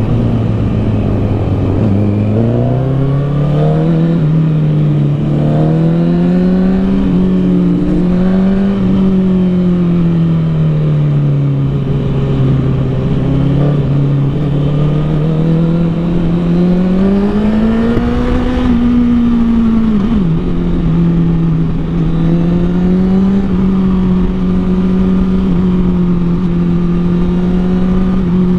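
2013 Honda CBR1000RR Fireblade's inline-four engine, breathing through a Taylormade aftermarket exhaust, running under way with the revs rising and falling. Its pitch climbs about two seconds in, sags midway, peaks and drops sharply a few seconds after that, then holds steady.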